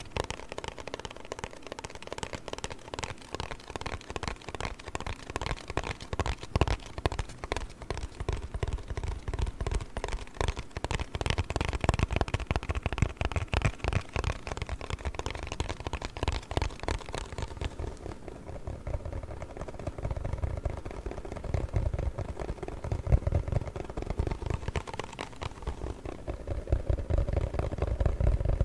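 Cardboard box worked by hand in fast ASMR style: a dense run of quick taps and scratches, many strokes a second. About two thirds of the way through the strokes turn duller and lower.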